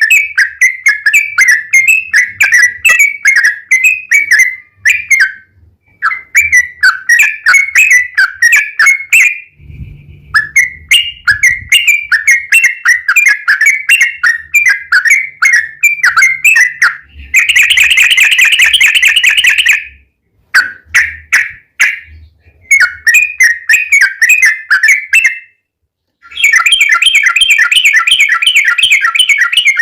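Yellow-vented bulbul (trucukan) song in long bouts of rapid chattering notes, broken by short pauses. Two bouts in the second half are denser and harsher.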